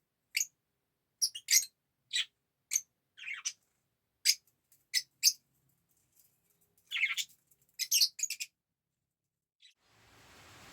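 Fischer's lovebird giving a string of short, sharp, high-pitched chirps in irregular bursts, with gaps of silence between them. A faint background hiss comes in near the end.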